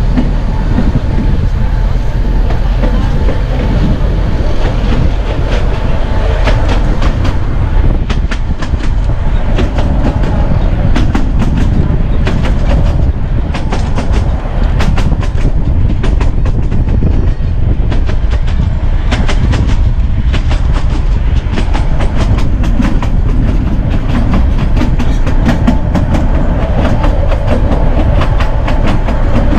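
Narrow-gauge railway coach rolling along the track: a steady low rumble with the wheels clicking over rail joints in quick, irregular runs.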